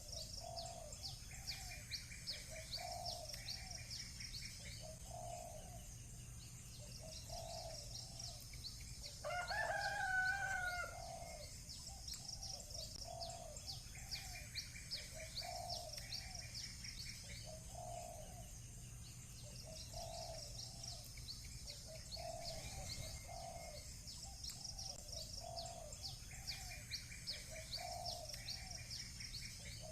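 Village birdsong: a rooster crows once, about nine seconds in, the loudest sound, over a dove cooing steadily about once a second and small birds chirping in high trills.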